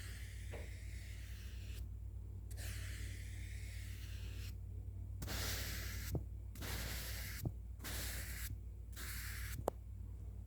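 Brush strokes swept close over the microphone, making soft hissing swishes. There are two long strokes at first, then about five shorter ones in quicker succession.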